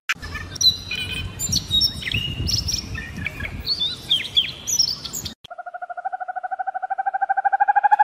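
Small wild birds chirping and twittering in quick, varied short phrases over a low outdoor rumble. About five seconds in this stops abruptly, and a rapidly pulsing steady tone begins and grows louder.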